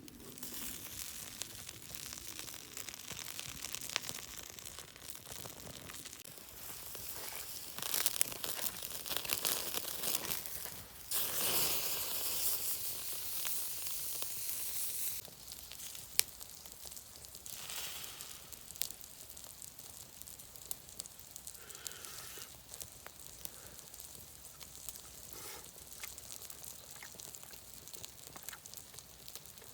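Food sizzling on a grill over a campfire, a steady hiss with scattered pops and crackles; it swells louder twice, the stronger surge around the middle, lasting a few seconds.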